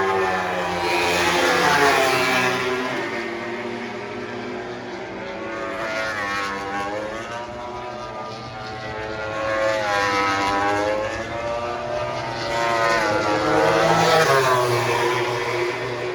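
MotoGP racing motorcycles with 1000 cc four-cylinder engines going past at speed, several bikes one after another. Each engine note climbs and drops as the bike approaches, shifts and passes, and the sound swells and fades with each pass.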